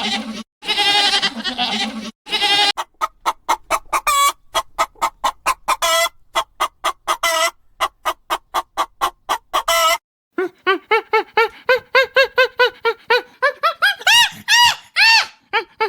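Goat bleating, two long calls, then a chicken clucking in a fast run of short notes. After a brief break comes a steady series of short pitched calls, some rising and falling near the end.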